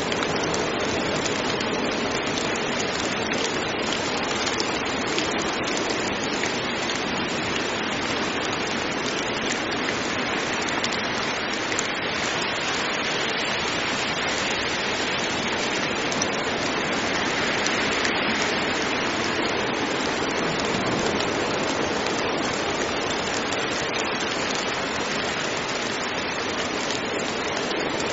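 Heavy rain falling steadily: a dense, even hiss of countless drops with no breaks.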